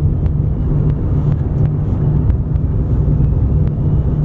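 Car driving: a steady low rumble of engine and road noise, with faint scattered ticks.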